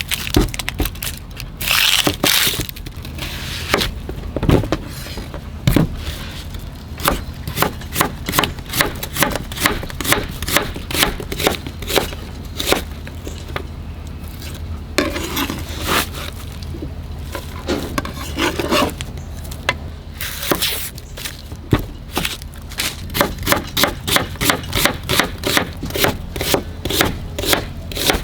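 Knife chopping on a cutting board in even strokes, about two to three a second, with a couple of longer scrapes partway through.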